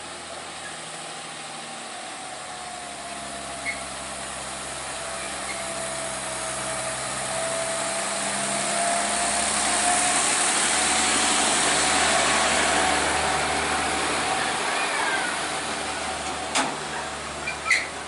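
Heavy truck diesel engine running under load on a steep climb, swelling to its loudest about two-thirds of the way through, then easing off, with a slowly falling whine over the engine. Two sharp knocks near the end.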